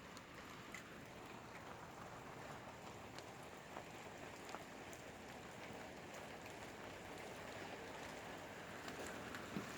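Steady rain falling during a thunderstorm, with scattered taps of drops on nearby surfaces.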